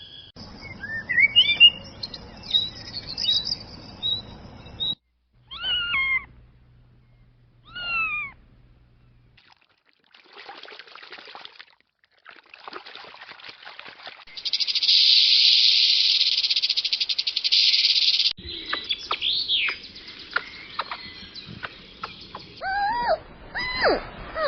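A cat meowing several times, each call a short rise and fall in pitch, in a run of separate short clips. A loud, steady, high-pitched rasping noise lasts about four seconds midway.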